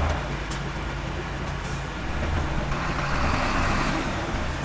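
Diesel engine of heavy earthmoving machinery running steadily, with a hiss that swells for about a second and a half just under three seconds in.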